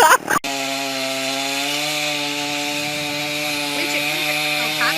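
Two-stroke chainsaw running at steady high revs while cutting, its engine note holding even. It starts about half a second in and stops near the end.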